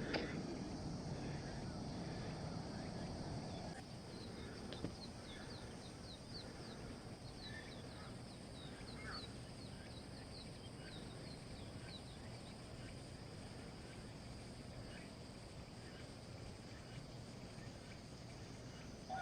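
Faint outdoor ambience with a steady hiss, over which a small bird gives a run of quick, high chirps for several seconds.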